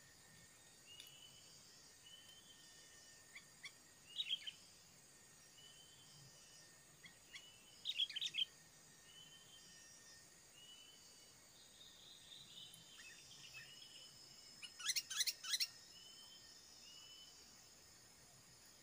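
Birds calling: a short chirp repeats about every second and a half, and louder clusters of sharp calls come about 4 and 8 seconds in, with the loudest near 15 seconds. A faint steady insect hum runs underneath.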